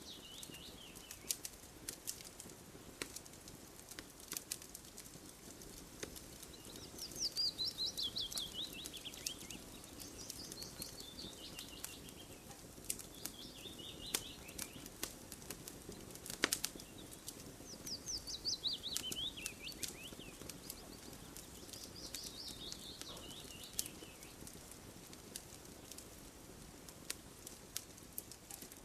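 Campfire crackling, with scattered sharp pops over a low steady rush. A songbird sings a repeated falling trill, each phrase a quick run of notes dropping in pitch, about every four seconds.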